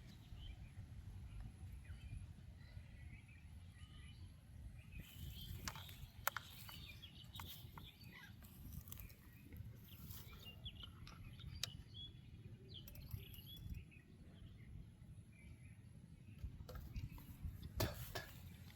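Outdoor ambience: faint, scattered bird chirps over a low, steady wind rumble, with a few sharp clicks about six seconds in and again near the end.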